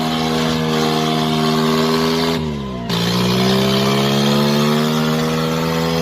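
Tractor diesel engine running hard at high revs, its pitch climbing slowly. About two and a half seconds in the revs drop sharply for about half a second, then pick up and climb again.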